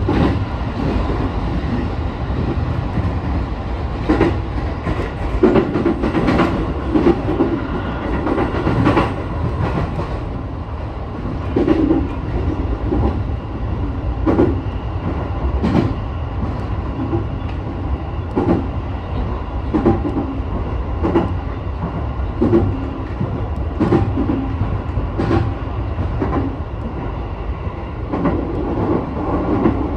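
Sotetsu 12000 series electric train running along the line, heard from inside the cab: a steady rumble of wheels on rail with sharp clacks over rail joints every second or two.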